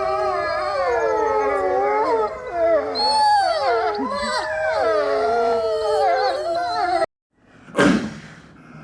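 Dogs howling, several drawn-out voices rising and falling over one another. They cut off suddenly about seven seconds in, and one short, sharp call follows near the end.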